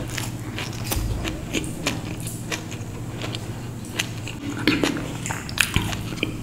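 A person chewing food close to the microphone: irregular, short, wet mouth clicks and smacks, with no speech.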